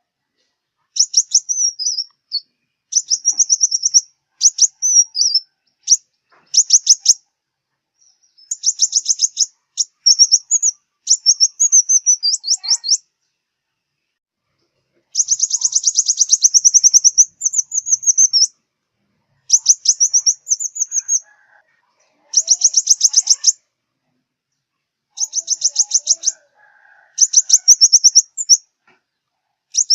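Sunbird singing: a series of high, rapid trilled phrases, each lasting one to two seconds, separated by short pauses.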